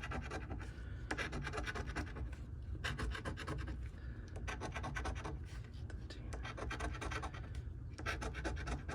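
Scratch-off lottery ticket being scratched off: a steady run of many quick, short scratching strokes.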